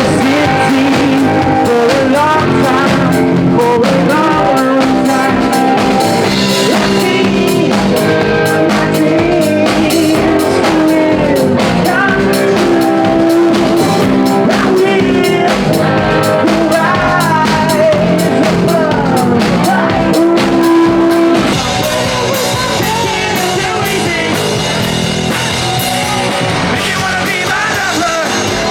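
Rock music with a singer, guitar and drums. The level drops a little about 21 seconds in.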